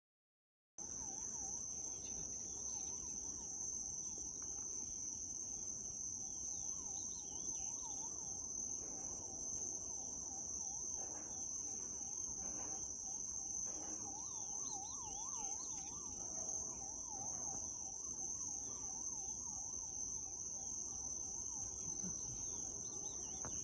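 Steady, high-pitched chorus of crickets that begins abruptly about a second in, with a faint warbling tone rapidly wavering up and down underneath.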